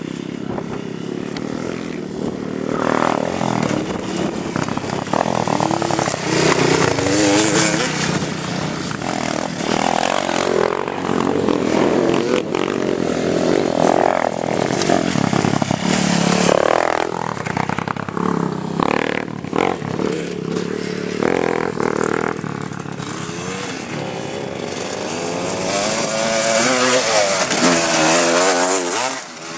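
Small motorcycle engines revving hard and easing off over and over, the pitch rising and falling many times as the bikes accelerate.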